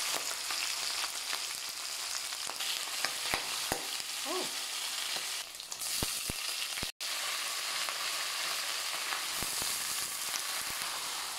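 Pork belly, garlic and chilies frying in oil in a wok with a steady sizzle, and chayote strips added by the end, with scattered sharp clicks of a spatula against the pan. The sound breaks off for an instant about seven seconds in.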